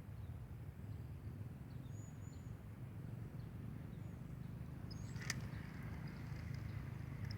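Faint outdoor ambience: a steady low rumble with a few short, high chirps and a single sharp click about five seconds in.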